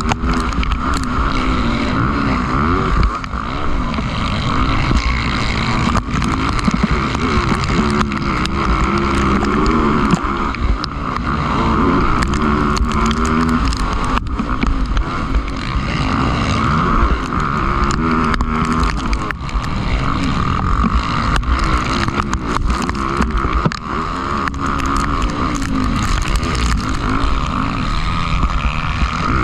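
Motocross bikes' engines revving, the pitch climbing and dropping again and again as the bikes accelerate and shift, with a steady high drone from other engines underneath.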